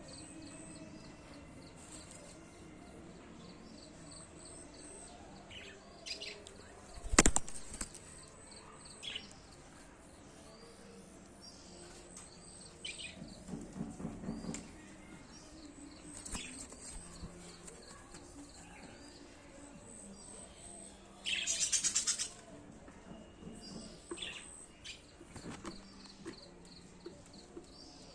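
Budgerigar chicks giving scattered short chirps, with a brief flurry of wing flapping about three quarters of the way through. A single sharp knock sounds about a quarter of the way in.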